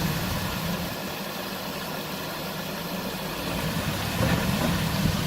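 Vehicle engine idling steadily, getting a little louder about four seconds in.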